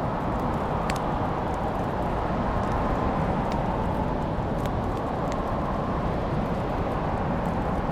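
Wood fire crackling, with a few sharp pops scattered through a steady rushing noise.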